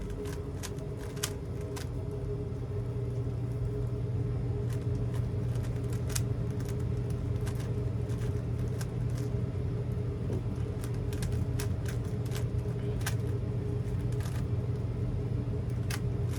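A Rubik's cube being twisted fast by hand: scattered quick plastic clicks from the turning layers, over a steady low hum.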